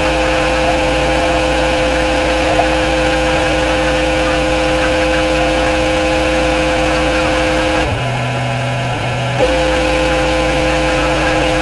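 Pressure washer running steadily with a constant hum. The sound breaks off about eight seconds in and starts again with a click a second and a half later.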